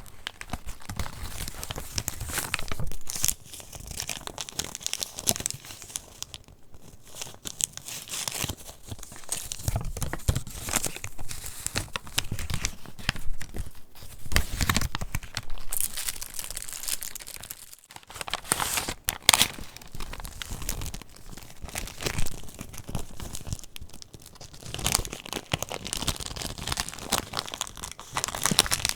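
Pages of a handmade paper junk journal being turned and handled: the paper rustles and crinkles in an irregular run of scratchy swishes and small taps.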